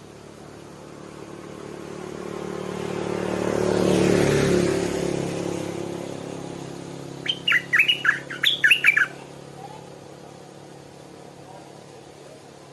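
A passing vehicle engine that swells to a peak about four seconds in and fades away. A stripe-throated bulbul then gives a quick run of about a dozen loud, sharp chattering notes lasting about two seconds.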